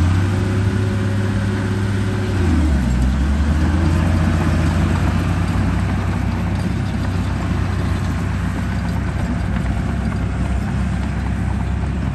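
A vehicle engine running steadily with a deep, low drone. Its note drops slightly about two and a half seconds in and then holds.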